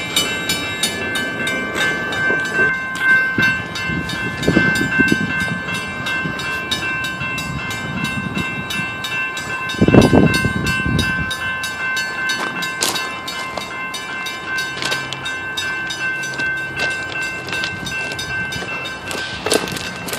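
Freight train rolling slowly with rhythmic clicking from the wheels and steady high squealing tones from the wheels on the rails, heard from aboard a car. A loud low thump comes about ten seconds in.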